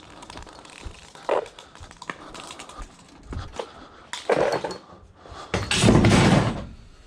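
Scrap items being handled and loaded: scattered knocks and clatter, then a louder crash and scrape lasting about a second near the end.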